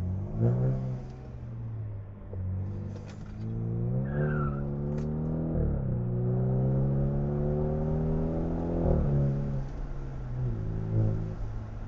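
Car engine accelerating hard through the gears. Its pitch climbs steadily, then drops sharply at each upshift, about six and nine seconds in.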